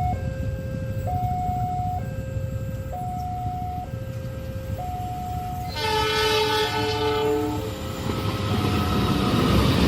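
Level-crossing warning alarm alternating steadily between two tones, a high–low cycle about every second and a half. About six seconds in, a train horn sounds a loud chord for about two seconds, and the rumble of the approaching train grows toward the end.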